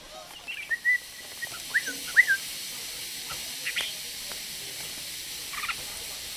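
Red-whiskered bulbul giving a short phrase of clear, rising and falling whistled notes about a second in, then a few brief chirps later, over a steady high hiss of cicadas.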